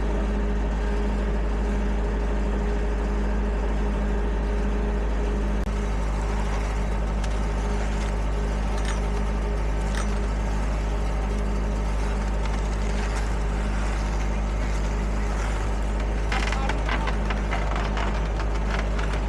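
Heavy construction machinery with a diesel engine running steadily, a deep hum under it. Near the end come a run of sharp clattering and scraping knocks.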